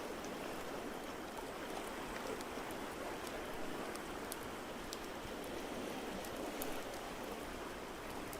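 Ambient mix of a fireplace crackling with scattered sharp little pops over a steady, even wash of water noise.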